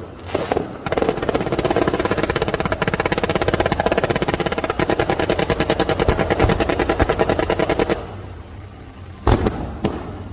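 Fireworks going off in a rapid, machine-gun-like run of bangs that stops abruptly, followed by a single loud bang near the end.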